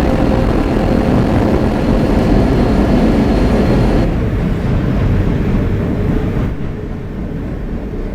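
Interior running noise of an R160B Siemens subway car under way: a steady rumble of wheels on rail with faint motor tones. It grows quieter and duller about halfway through.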